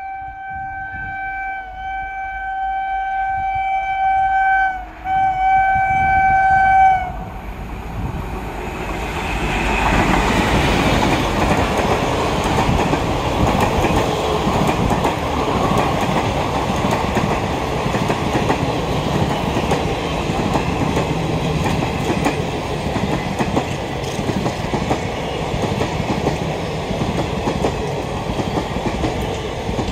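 Express passenger train (the Kolkata–Jammu Tawi Express) sounding its locomotive horn in two long blasts of one steady pitch, the second cut short about seven seconds in. The train then passes close at speed, its coaches' wheels rumbling and clattering over the rail joints.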